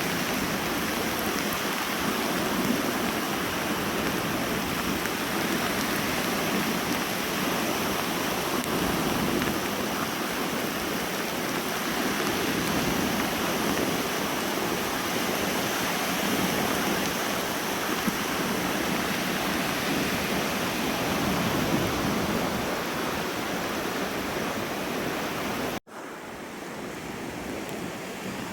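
Steady rushing noise of wind buffeting the microphone, mixed with lake waves breaking and rain falling. It cuts out for an instant near the end and comes back a little quieter.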